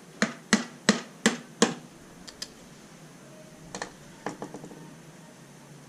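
Five sharp knocks in quick, even succession, then a few lighter clicks and taps.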